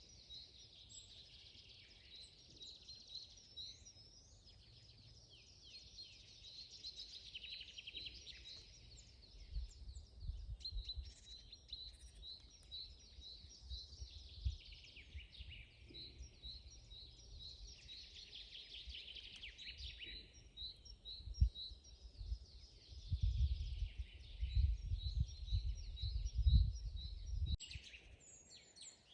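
Several wild songbirds singing and chirping together in a dense chorus, with short high chirps repeated over and over. A low rumble comes and goes beneath them and is loudest in the last few seconds.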